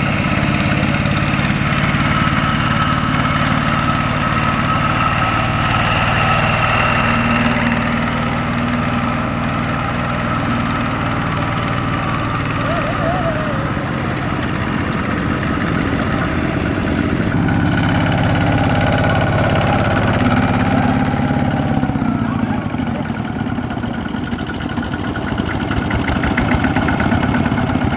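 Tractor diesel engine running steadily, its note shifting slightly a couple of times.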